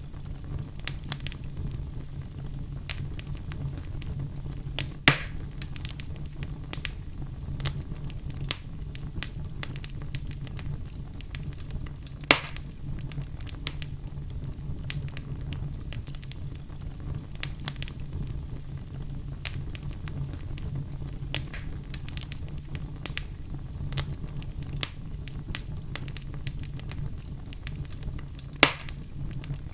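Wood fire crackling in a fireplace: a continual scatter of small snaps, with three louder pops, over a steady low rumble.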